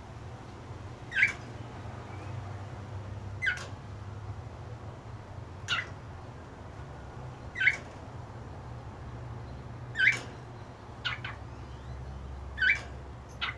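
A cockatiel giving short, sharp chirping calls, about seven of them, roughly one every two seconds, over a faint steady low hum.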